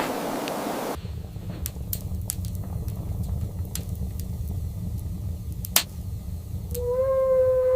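A low steady rumble with scattered sharp clicks and crackles, after a second of rushing wind-like noise that cuts off abruptly. Near the end a single held tone with overtones sets in.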